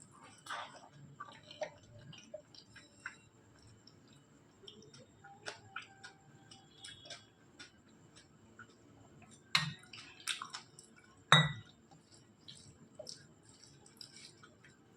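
Close-up eating sounds: wet chewing and small mouth clicks, with two sharp knocks a little past the middle, the second one louder.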